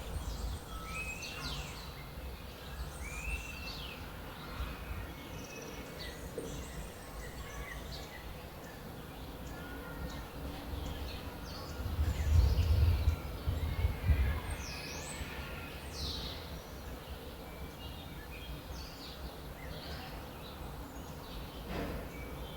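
Several songbirds chirping and singing in short calls and whistles over a steady low background rumble. A louder low rumble lasts about two seconds midway.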